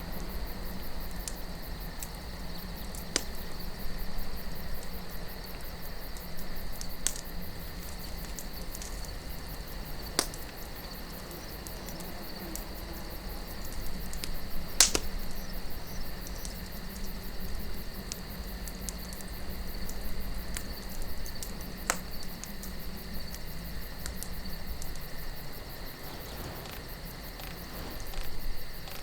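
Campfire of burning wood crackling, with a few sharp pops, the loudest about halfway through. Soft wind runs underneath, along with a steady high chirring.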